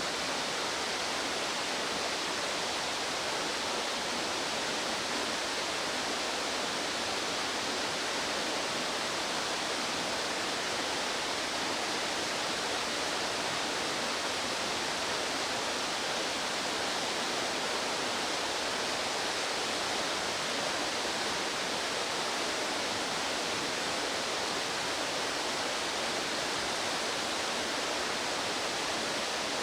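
Steady rushing of a fast-flowing mountain stream, an even wash of water noise with no change throughout.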